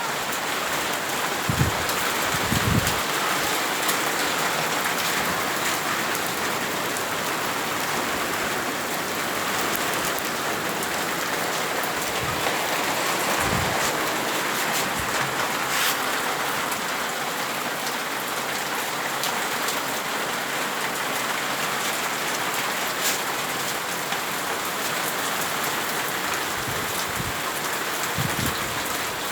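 Hail and heavy rain falling: a steady hiss dotted with many sharp clicks of hailstones striking, and a few short low thumps.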